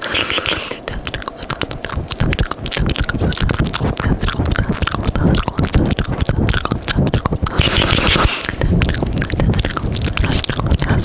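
Fast, wet mouth sounds made close to a microphone: rapid tongue clicks and smacks, with a short hiss near the start and again about three-quarters of the way through.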